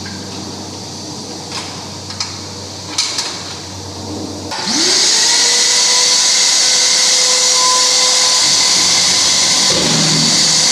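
A few light knocks, then about four and a half seconds in an electric concrete core drill's motor spins up quickly and runs at a steady, loud, high whine.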